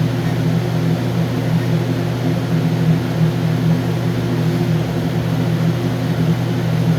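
Steady, loud machinery hum made of several low tones held constant.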